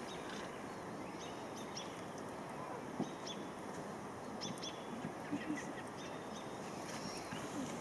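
Small birds chirping: short, high, falling chirps repeated many times over a steady outdoor background hiss.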